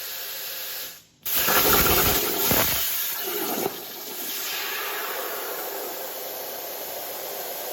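Plasma cutter hissing steadily. About a second in it cuts out briefly, then a louder, rougher stretch of cutting noise lasts a little over two seconds before the steady hiss returns.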